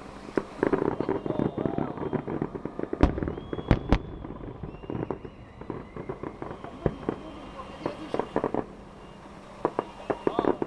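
Fireworks going off: a run of sharp bangs and pops at uneven intervals, loudest about three to four seconds in.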